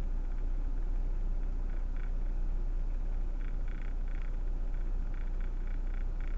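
Steady low rumble of a car heard from inside the cabin, with quick runs of short rattling ticks, about five a second, starting about two seconds in.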